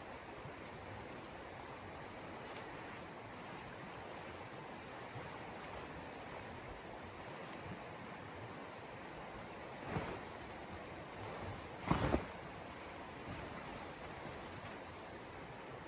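Steady rushing of storm wind, interrupted by two short thumps, about ten and twelve seconds in, the second louder.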